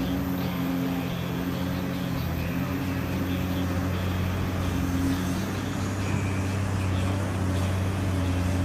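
An engine running steadily with a low hum, its tone shifting slightly about halfway through.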